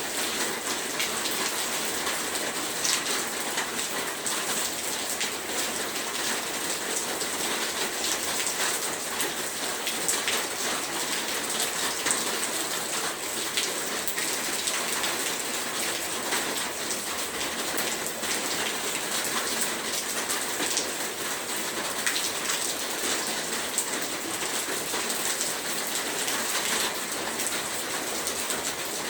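Heavy rain falling steadily, a dense hiss of drops striking a surface with many sharp individual drop ticks through it.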